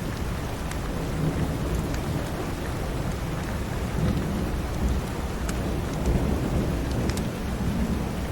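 Steady heavy rain with a low rolling rumble of thunder that swells several times, and scattered sharp crackles from a fireplace.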